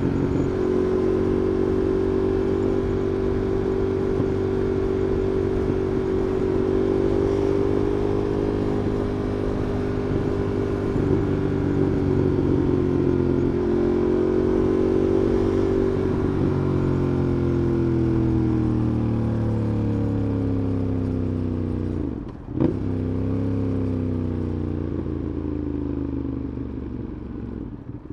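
Ducati Monster 821's V-twin engine running through city riding, its pitch rising and falling gently with the throttle. About 22 seconds in the engine note drops away and snaps back in a quick rev, and near the end it fades lower as the bike slows.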